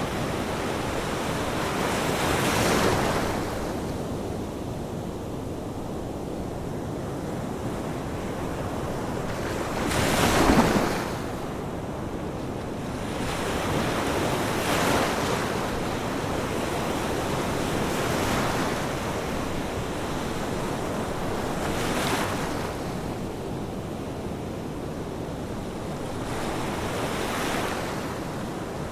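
Ocean waves breaking over a steady wash of surf, each wave swelling and fading every four to five seconds. The loudest wave breaks about a third of the way in.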